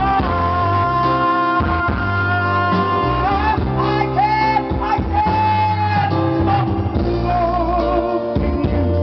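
Live band music with a man singing a Western pop ballad, holding long wavering notes over guitar and a steady bass line.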